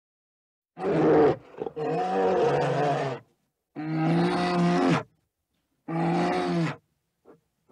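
Brown bear roaring: four drawn-out roars, each about a second long, with short silent gaps between them.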